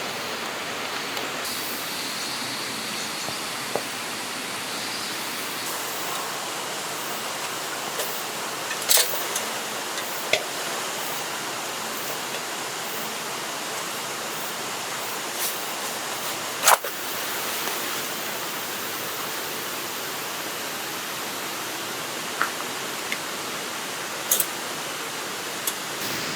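Steady rush of a river running close by, with scattered short clicks and knocks, the loudest a little past halfway.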